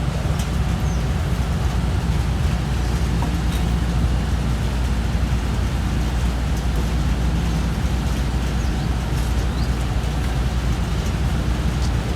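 Motorcycle engine running steadily at speed while riding, a low hum under a continuous rush of road and wind noise.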